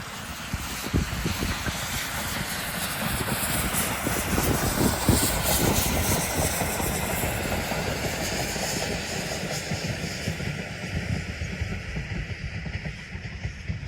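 Steam train running past: the locomotive and its carriages, loudest about five seconds in and then slowly fading.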